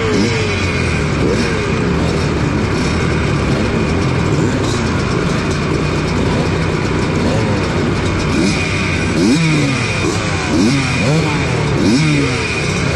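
A line-up of vintage two-stroke motocross bikes, among them a 1982 Yamaha YZ100, idling and blipping their throttles on the start line. Several engines rev up and fall back over and over, overlapping.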